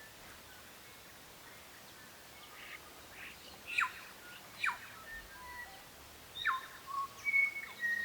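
Birds calling: short high whistles and a couple of quick falling notes, scattered through the second half, over a faint steady hiss.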